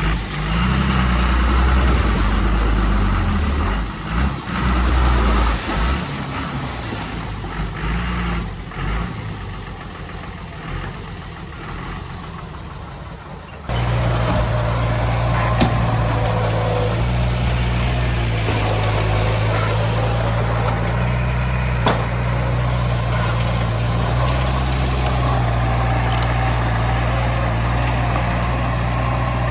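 Heavy diesel construction machinery running under load, its engine note rising and falling. About fourteen seconds in the sound changes abruptly to a steadier, lower diesel engine with a few sharp clicks.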